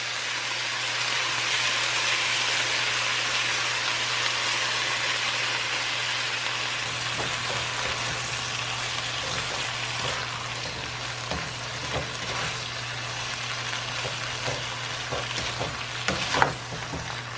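Chicken and vegetables sizzling in a hot non-stick pan, the sizzle swelling for a few seconds as the soy and oyster sauce hits the pan. From about halfway, a spatula knocks and scrapes against the pan as the stir-fry is tossed, with a sharper clack near the end.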